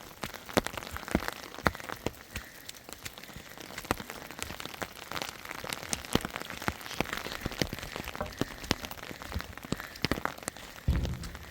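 Rain falling, with many irregular sharp drops striking a surface, and a low thump near the end.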